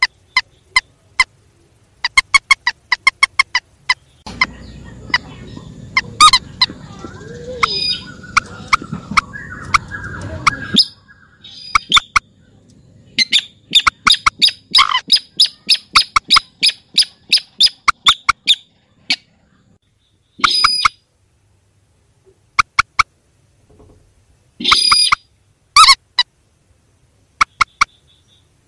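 Mandar and sintar rails calling: rapid runs of short, sharp notes repeated in bursts, with pauses between bursts. A low rumbling noise lies under the calls from about four to eleven seconds in.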